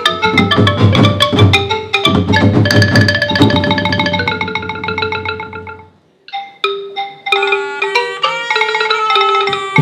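Music of xylophone-like struck mallet notes over drums, played fast and densely. It breaks off about six seconds in, then resumes with sparser single notes.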